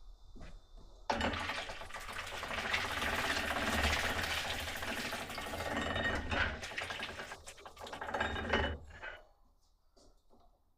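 Grapes going through a hand-cranked grape crusher: a dense rattling clatter that starts suddenly about a second in and dies away about nine seconds in.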